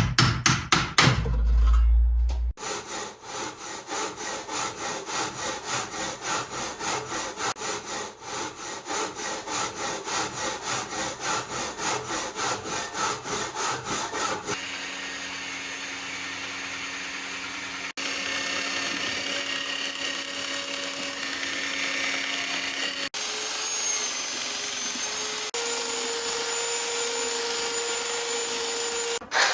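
Hand saw cutting with quick, even strokes, about three a second, for roughly twelve seconds after a few heavy knocks at the start. The second half is a steadier hum with some held tones, broken by several abrupt changes.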